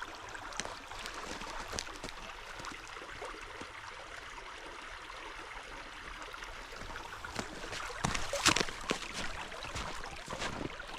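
Creek water running steadily. A louder burst of rustling noise comes about eight and a half seconds in.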